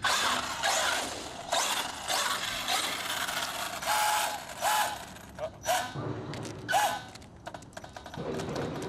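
Electric RC monster truck's brushless motor whining in short bursts while its loose pinion gear grinds and skips against the spur gear, a harsh ratcheting clatter. It starts suddenly and eases off after about seven seconds.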